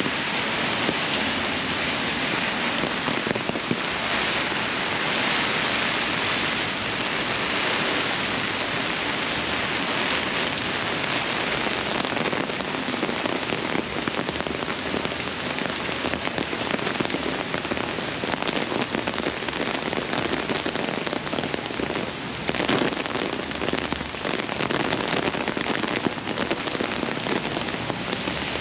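Heavy rain falling steadily on city pavement and street: a dense, even hiss of rain with many fine drop ticks.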